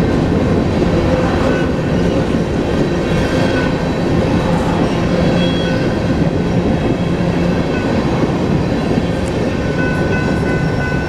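Freight train of Union Pacific hopper cars rolling slowly past, steel wheels rumbling steadily on the rails. A thin, high wheel squeal rises near the end.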